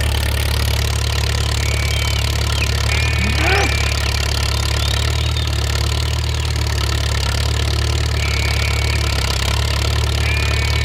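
A motor running steadily with a low hum. A few short high chirps sound over it, with one quick rising whistle about three and a half seconds in.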